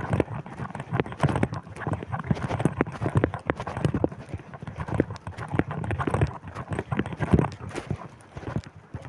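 Footsteps of a person walking at about two to three steps a second, over a low rumble of wind on the microphone.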